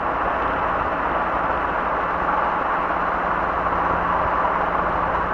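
Robinson R22 helicopter heard from the cabin: a steady drone of engine and rotor with a constant low hum underneath.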